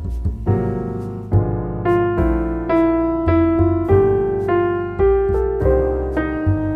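Background piano music: a slow, gentle melody of single notes over sustained low chords.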